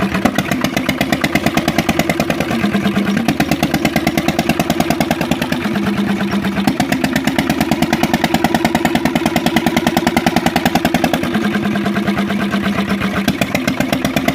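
Kirloskar engine running with a steady, rapid thudding beat; its pitch steps slightly up and down a few times.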